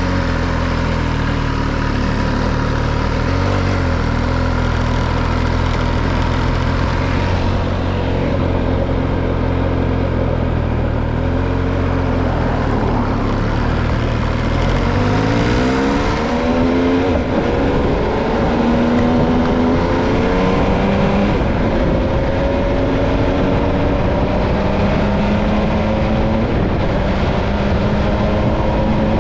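MV Agusta Stradale 800's three-cylinder engine running at a steady low idle, then, about halfway through, its pitch climbs sharply as the bike pulls away and keeps rising slowly as it gathers speed.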